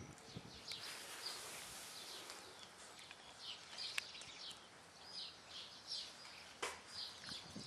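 Birds chirping: short high chirps repeating every half second to a second over a faint outdoor hiss, with a sharp click about four seconds in and another a few seconds later.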